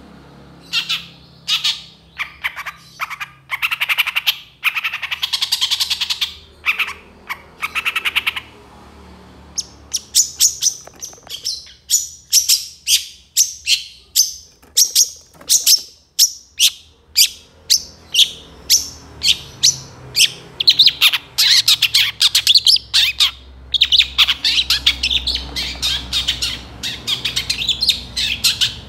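Long-tailed shrike (cendet) singing energetically: fast runs of sharp, high chirping notes mixed with harsh squawks. The song breaks off for about a second and a half a third of the way in, then resumes in dense rapid bursts.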